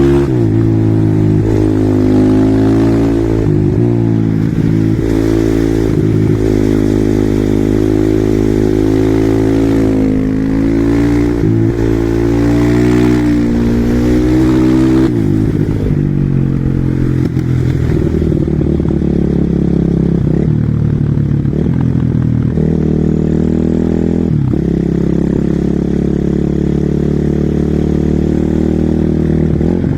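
Husqvarna SM 450R single-cylinder four-stroke supermoto engine pulling hard, its pitch climbing and dropping again and again through the gears in the first half. After that it runs steadier at lower revs, with a few brief drops in throttle.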